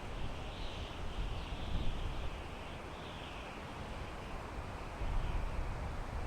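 Wind blowing through pine trees: a steady hiss in the needles that swells and eases in gusts over a low rumble, with the rumble growing stronger near the end.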